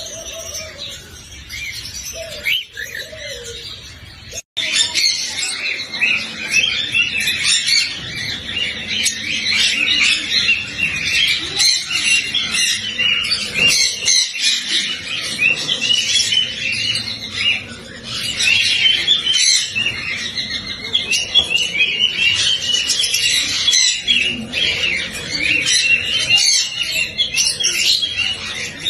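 Cockatiels chirping: sparse calls at first, then, after a sudden cut about four seconds in, a dense, continuous chatter of many overlapping short chirps.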